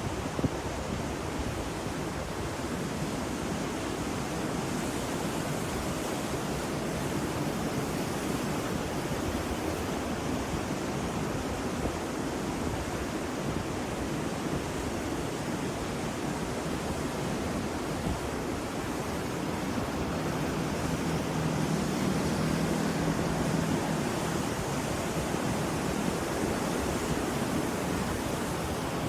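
Ocean surf washing in a steady, continuous rush, swelling a little about two-thirds of the way through, when a faint low hum briefly sits under it.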